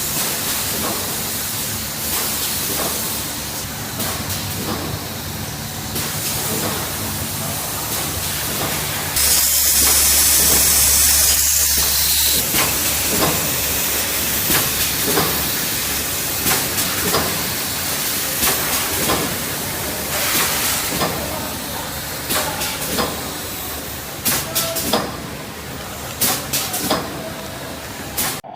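Automatic pouch spout inserting and welding machine running: a steady mechanical hum and hiss with repeated clacks as it cycles. A louder hiss lasts about three seconds near the middle.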